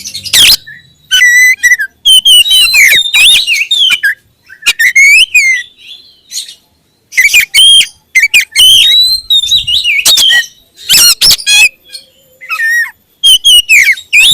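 Oriental magpie-robin (kacer) singing loudly in bursts of varied whistles, quick trills and harsh chattering notes, broken by short pauses between phrases.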